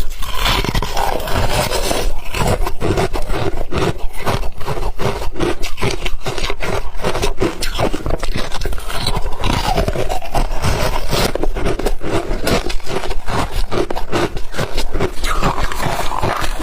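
Ice being chewed close to the microphone: rapid, continuous loud crunching.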